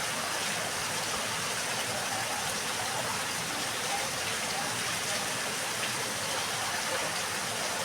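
Steady rain falling, an even hiss with occasional faint drop taps.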